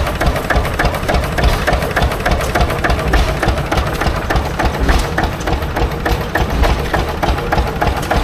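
Antique engine running at low speed with a steady, regular knocking beat.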